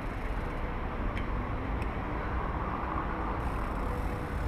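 Wind rumble on the camera's microphone and rolling noise from a mountain bike in motion, a steady low haze with a couple of faint clicks.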